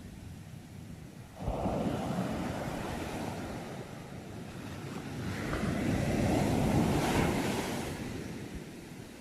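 Sea waves breaking on the shore: one wave crashes in suddenly about a second and a half in, washes and recedes, then a second, louder wave builds and breaks near the end before fading. Wind noise on the microphone runs under it.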